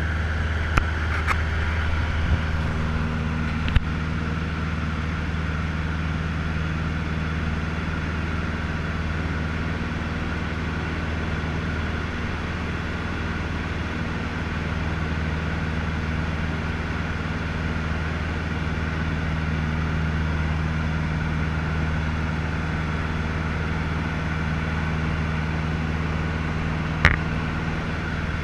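Cessna 150L's four-cylinder Continental O-200 piston engine running steadily as a continuous low drone, with a few short clicks in the first few seconds and one about a second before the end.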